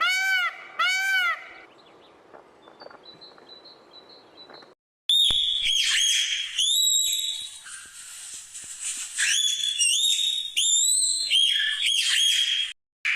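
Bird calls: a few repeated arching calls at the start, then faint chirping, then after a sudden break a run of loud whistled calls with rising and falling notes, cut off abruptly near the end.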